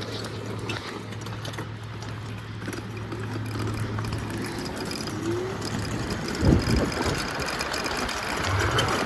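A vehicle on the move: a steady engine hum over road noise, with a short low thump about six and a half seconds in.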